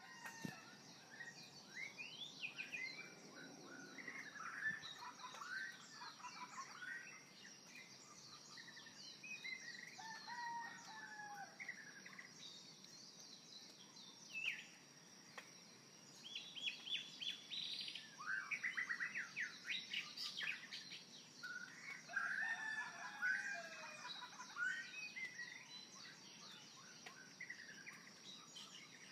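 Birds chirping and singing: many short, quick, overlapping calls that come and go, over a steady high hiss.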